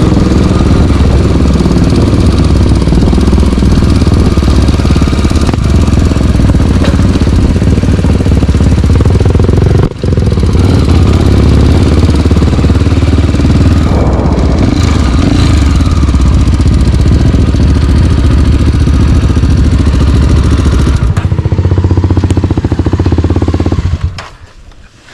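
Single-cylinder trail motorcycle engine running loudly and steadily, with a momentary break about ten seconds in; it falls away sharply about a second before the end.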